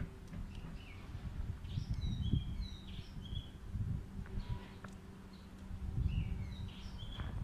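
Small birds chirping in short calls scattered throughout, over an uneven low rumbling noise and a faint steady low hum.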